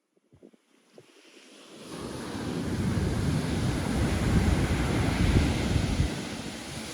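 Pacific Ocean surf washing in, with wind buffeting the microphone. The sound rises out of near silence about two seconds in and eases slightly near the end.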